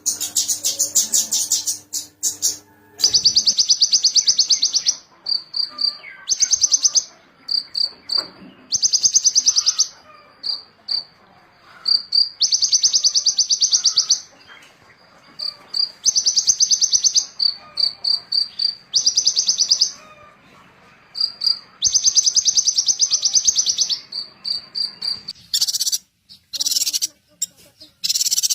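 A small songbird singing: rapid, high buzzy trills of one to two seconds, repeated again and again, with short single high notes between them. Near the end a few brief noisy bursts break in.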